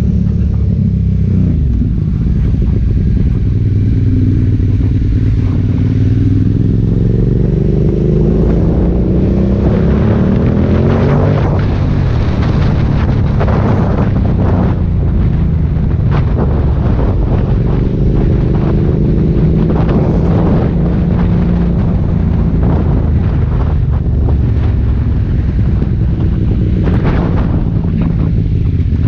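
Aprilia Dorsoduro 750's V-twin engine with an Akrapovic exhaust, under way, its pitch climbing over the first ten seconds or so and rising and falling with the throttle after that. Wind buffets the microphone from about ten seconds in.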